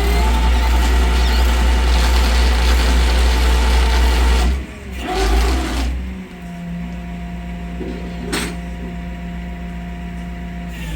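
Motor vehicle engine running with a loud, deep, steady rumble. About four and a half seconds in it breaks off and gives way to a quieter steady hum, with a single sharp click a few seconds later.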